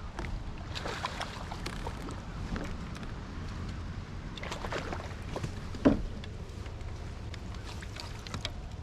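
Small knocks, clicks and light splashing from a kayak and its gear over a low wind rumble on the microphone, with one sharper knock about six seconds in.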